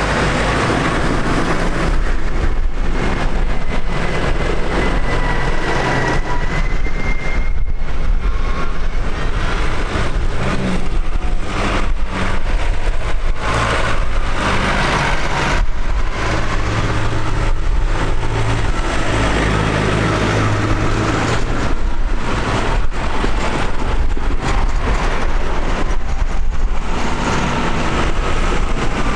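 Tractor engines running steadily as tractors drive past, with a low engine drone throughout and a faint higher whine that rises briefly about six seconds in.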